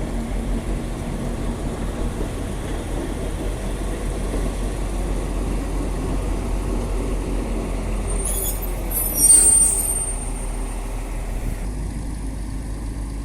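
Old Cummins diesel engine of a small switcher locomotive running steadily as it moves along the track. About nine seconds in comes a brief high hiss with a thin squeal, the loudest moment.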